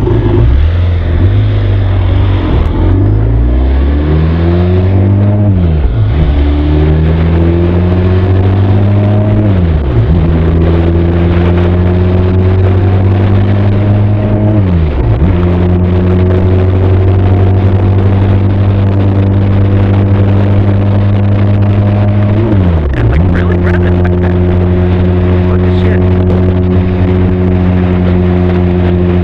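Benelli TRK 502 parallel-twin motorcycle engine and exhaust accelerating through the gears: the pitch climbs and drops sharply at each of four upshifts, then holds steady at cruising speed for the last few seconds.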